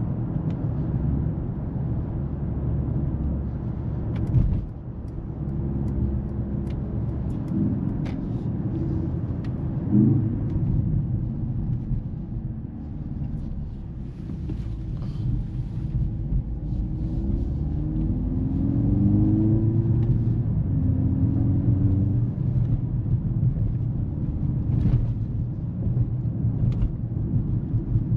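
Mercedes-AMG GLC 43 Coupe on the move: steady low engine and road rumble, with the engine note rising several times in the middle as the car accelerates. Two sharp knocks, one about four seconds in and one about ten seconds in.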